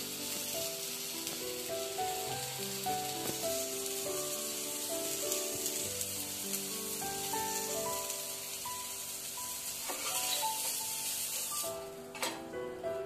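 Uttapam sizzling in oil on a hot flat tawa as its second side crisps, over background instrumental music. The sizzle cuts off suddenly near the end, and a metal spatula scrapes as the uttapam is lifted off the pan.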